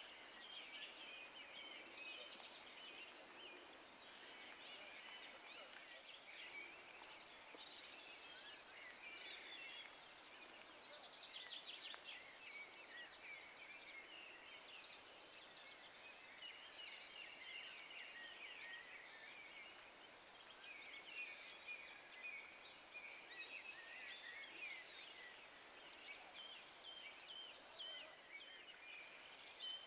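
Faint birdsong: small birds chirping and twittering over a quiet background hiss, with a quick trill about eleven seconds in.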